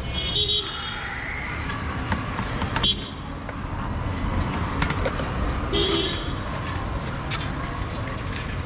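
Road traffic running steadily, with three short vehicle horn toots: one at the start, one about three seconds in and one about six seconds in.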